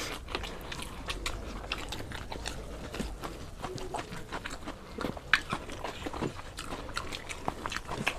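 Close-up eating sounds of people chewing and biting food, with many small irregular clicks and mouth noises and one sharper click about five seconds in.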